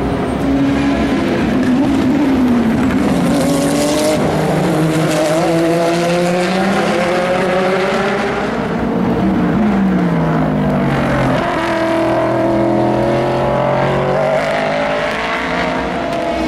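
Several racing car engines passing one after another at speed, their pitch rising and falling with gear changes as they go by.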